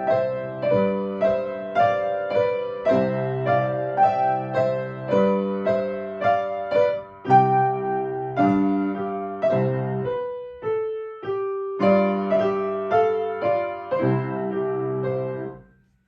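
Piano played in steady chords with a melody on top, a note or chord about every half second; around ten seconds in it thins to a few single notes, then the chords return and the playing stops near the end.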